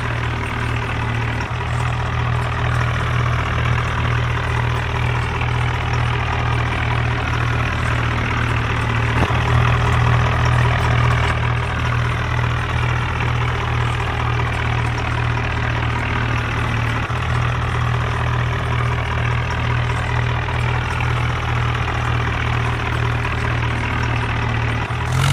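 Tractor engine running steadily at idle, a continuous low drone.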